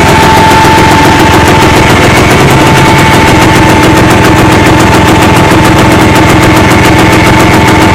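IZH-350's single-cylinder two-stroke engine running steadily during its break-in, a loud rapid exhaust beat close to the microphone.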